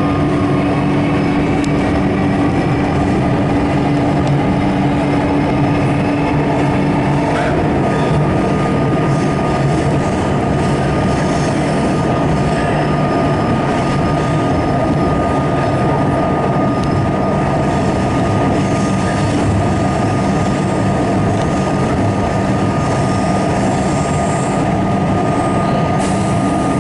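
Interior of a Comeng electric suburban train running through an underground city tunnel with its windows open: a loud, steady rumble of wheels and traction gear. A steady whine runs throughout and jumps to a higher pitch about seven seconds in.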